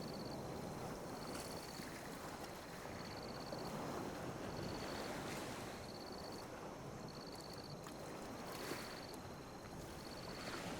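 Calm ocean waves lapping and washing on a beach, a steady soft wash that swells gently and never crashes. A short high chirp repeats regularly, every second or so, over the water.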